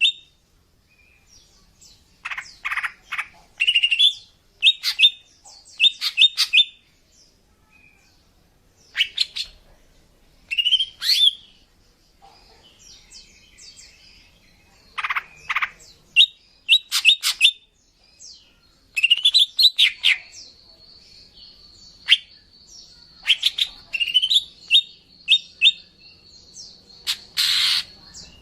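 Female green leafbird (cucak ijo) calling in irregular clusters of short, sharp chirps and squawks, with brief gaps between them. A thin, steady, high whistle is held for several seconds in the second half. These are female calls used as a lure to attract males.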